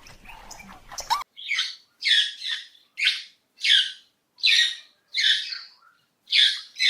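A bird squawking: about nine short, harsh, high calls in an even series, roughly one and a half a second, starting about a second in.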